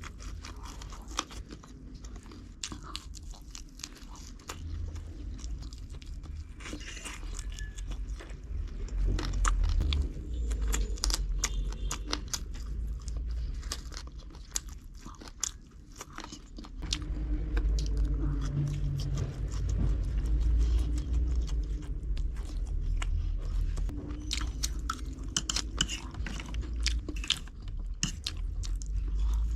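Close-up chewing and biting of food, with many sharp crunches. A low rumble under it grows louder about halfway through.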